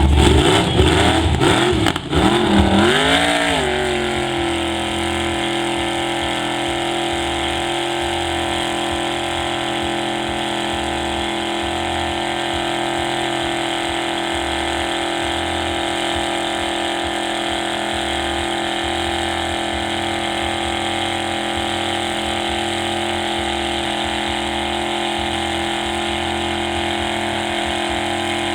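Large off-road truck engine, its pitch wavering up and down for the first three or four seconds with a few sharp knocks, then settling to run steadily at one constant speed.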